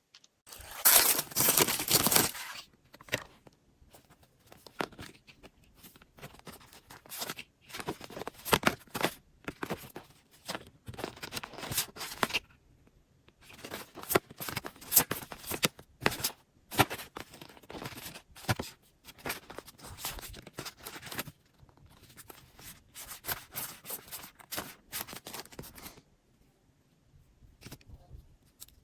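Packaging being torn open and handled during an unboxing: bursts of tearing, crinkling and rustling of wrapping and box material, one after another. The longest, loudest tear comes about a second in.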